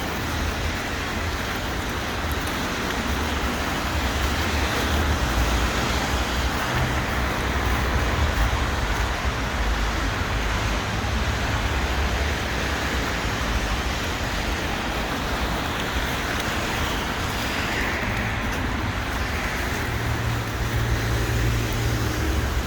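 Steady city street noise of road traffic, with a continuous low rumble of passing cars.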